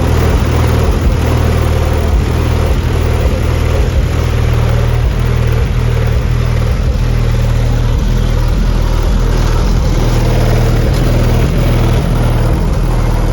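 Car engine running with a deep, steady rumble.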